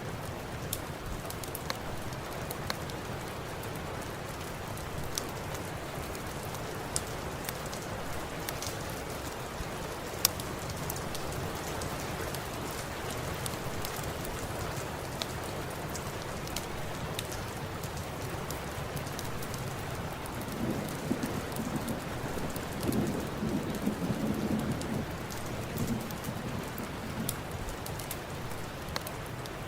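Steady rain with scattered sharp crackles, and a low rumble of thunder rising about twenty seconds in and lasting several seconds.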